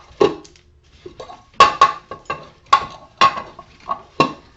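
Metal scrap parts being handled: a series of about eight sharp clinks and knocks, several with a short metallic ring.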